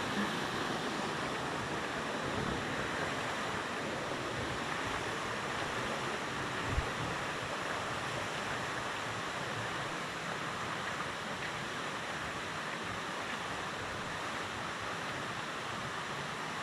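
Steady rushing of a rainforest waterfall and stream, with one brief low thump about seven seconds in.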